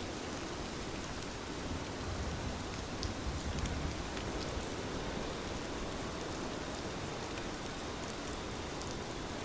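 Steady rain falling, with scattered sharp drop ticks over an even hiss. A low rumble swells briefly a couple of seconds in, then settles.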